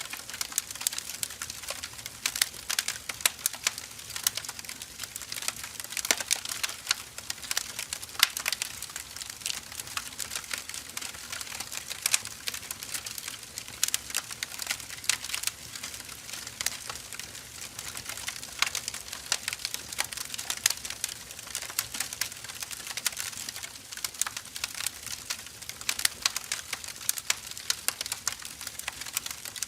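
Firewood burning, crackling steadily with a dense, irregular run of small sharp pops and snaps.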